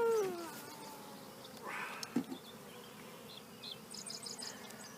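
Honey bees buzzing around an opened hive as a steady hum. About two seconds in there is a brief scrape and a knock.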